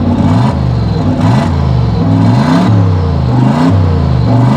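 Aston Martin drift car's engine being revved at a standstill just after starting, in repeated blips about once a second, its pitch rising and falling each time.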